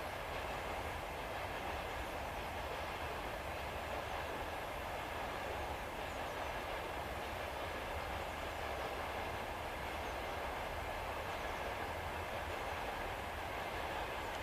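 Train running: a steady, unbroken noise with a low rumble underneath.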